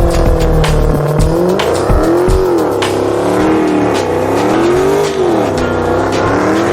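Drift car engine revving up and down repeatedly, its pitch rising and falling several times as it slides through a run, with background music underneath.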